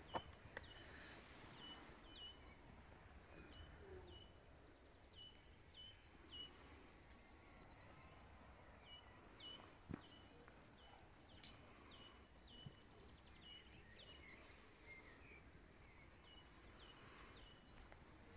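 Quiet open-air ambience with a faint bird in the distance, singing series of short, high, repeated notes that stop and start several times. A faint click about ten seconds in.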